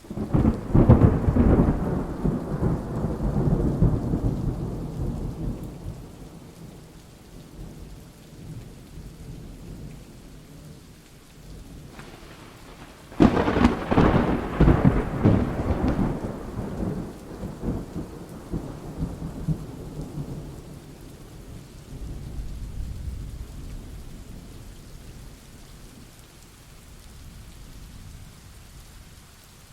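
Thunderstorm: two peals of thunder over steady rain. The first breaks at the start and rumbles for several seconds before fading. The second is a sharp crack about 13 seconds in, followed by a long rumble that dies away, with a last low roll a few seconds later.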